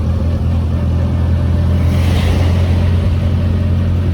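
A Morgan Plus 4's four-cylinder engine running steadily at cruising speed, heard from on board with a steady hum of engine and road noise, and a brief rise in hiss about two seconds in.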